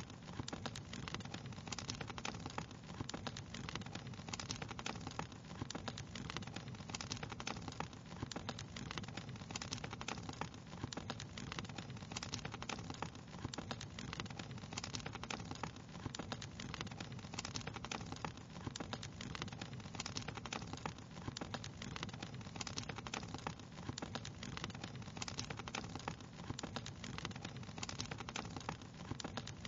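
Wood fire crackling steadily: a dense, even stream of small pops and snaps over a low, steady rumble.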